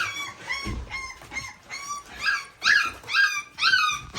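A litter of three-week-old American Bully puppies crying: a quick string of high-pitched whines, each rising and falling, about three a second. The owner takes the crying for hunger.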